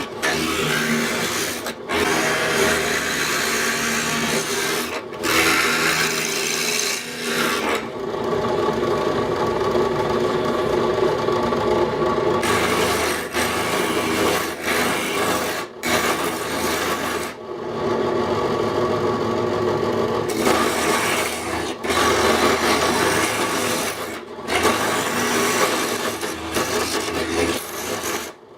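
Drill press spinning a Wagner safety planer cutter, shaving the face of a wooden board fed beneath it: a rough, rasping cutting hiss over the steady hum of the motor. It breaks off abruptly several times.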